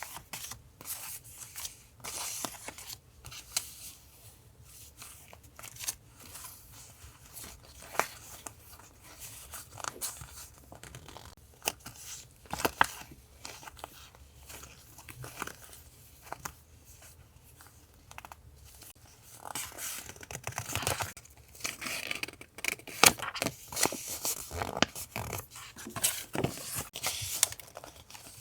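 Paper being handled and torn for a collage journal: scattered crisp taps and rustles of paper, getting busier and louder about two-thirds of the way through.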